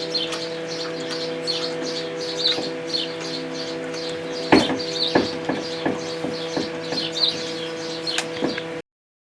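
Birds chirping over and over above a steady low hum, with a run of sharp clicks and knocks from about halfway through. Everything cuts off suddenly near the end.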